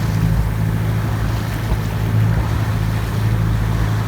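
Wind buffeting the microphone and water rushing along the hull of a sailing yacht under sail: a steady low rumble with an even hiss over it.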